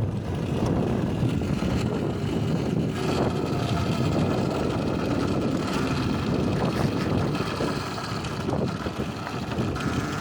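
Wind buffeting a handheld phone's microphone while riding an electric bike, with the motor's faint steady whine underneath.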